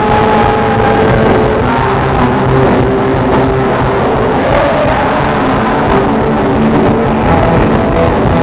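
Loud live band music with held notes over a dense, steady backing.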